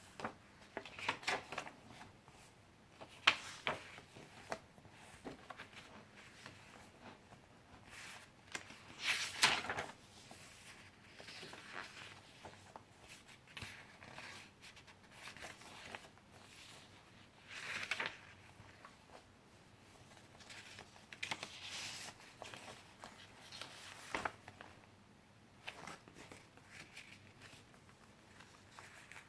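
Pages of a handmade paper-and-fabric junk journal being turned and handled: irregular paper rustling and crinkling, with a few louder page flips and a sharp tap about three seconds in.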